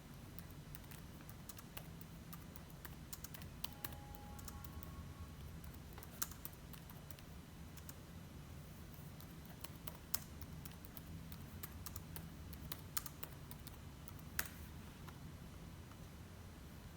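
Keyboard typing: irregular key clicks with a few louder taps, over a low steady hum.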